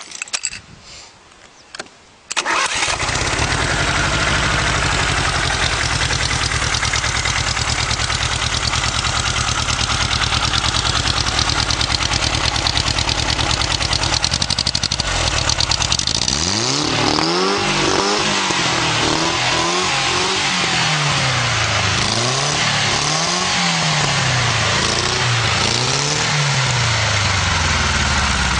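The four-cylinder engine of a VAZ 2108 converted into a motorcycle catches about two seconds in, after a few clicks. It idles steadily, then is revved up and down over and over in the second half.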